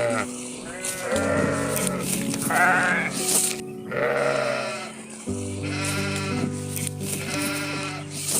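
Sheep bleating again and again, each call wavering, over background music with steady held chords.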